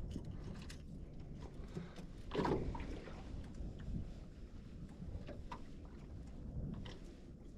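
Low, steady wind and water noise on a small boat, with scattered light knocks and one louder, brief rustle about two and a half seconds in.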